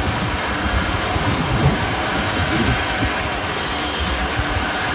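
Toy aeroplane's jet-engine sound effect: a steady rushing jet noise with a faint high whine, cutting off suddenly at the end.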